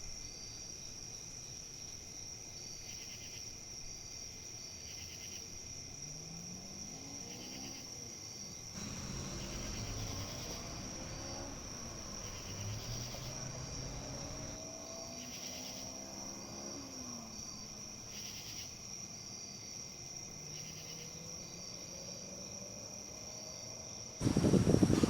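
Insects chirring in a steady high tone, with short pulsed chirps repeating about once a second. Faint low sounds glide up in pitch several times in the middle, and a sudden loud rush of noise breaks in near the end.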